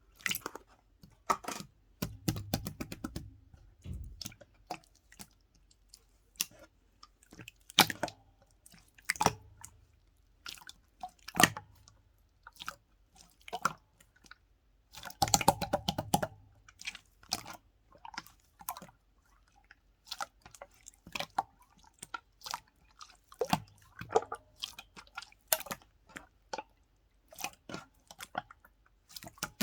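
Hands playing with slime: irregular sticky clicks and pops, with longer squelching stretches about two, fifteen and twenty-four seconds in.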